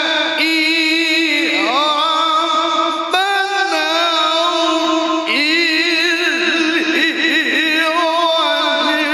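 A male qari reciting the Qur'an in the melodic tilawah style, holding one long vowel on a high sustained pitch with rapid trills and sliding ornaments, shifting to new notes a few times.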